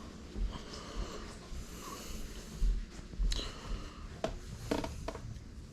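Soft low thumps and rustling of someone moving about, with a few sharp clicks in the second half.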